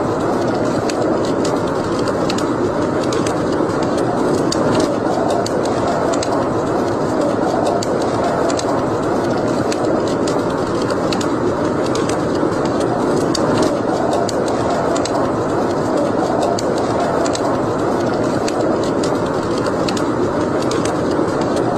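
Wood fire crackling in a fireplace: a steady rushing noise with frequent sharp little pops and snaps at irregular intervals.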